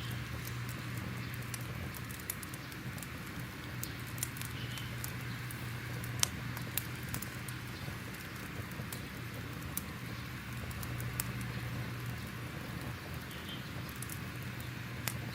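Crackling fire: irregular sharp pops and crackles over a steady hiss and low hum, the loudest pop about six seconds in.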